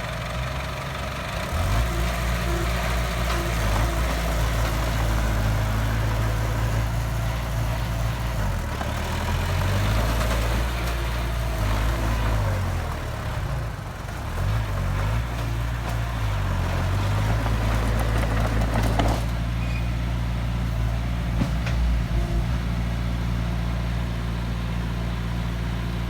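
Heavy construction machine's diesel engine working, its pitch rising and falling with throttle and load through the middle, then settling to a steady idle about nineteen seconds in.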